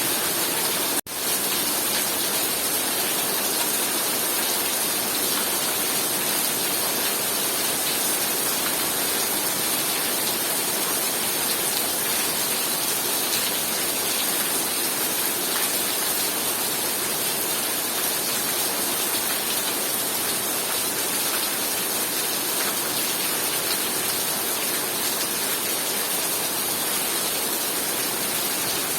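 Heavy rain pouring down in a steady, dense hiss, with a momentary break in the sound about a second in.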